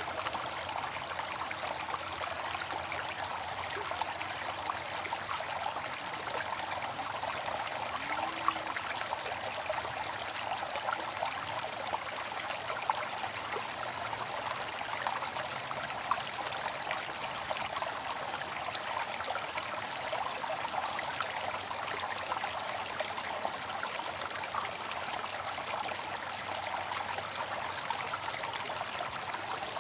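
Water fountain splashing and trickling steadily, with many small drips and splashes over an even rush of falling water.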